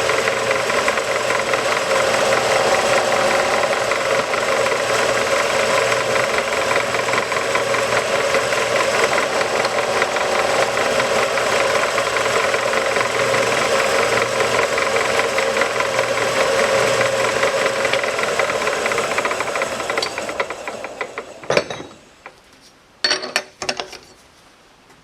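A power tool's motor running steadily with a rasping rattle, winding down about twenty seconds in, followed by a few light metal clinks.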